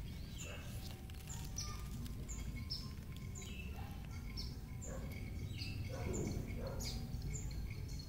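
Several small birds chirping, one repeating a short high falling note a little more often than once a second, over a steady low background noise.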